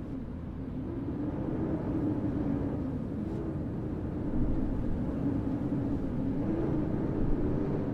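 Outdoor city ambience: a steady low rumble with a faint, wavering hum running through it.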